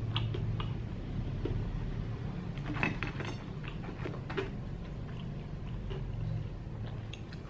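Close-up chewing of crisp-battered fried breadfruit: scattered small crunches and clicks, with a short cluster about three seconds in. Light clicks from fried pieces being picked off the plate.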